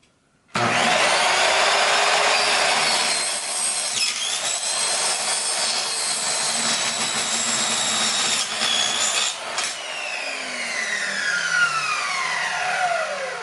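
A power saw starts up about half a second in and cuts through the end of a retractable screen housing, its high whine dipping as the blade bites. About ten seconds in it is switched off and the blade winds down, the whine falling steadily in pitch.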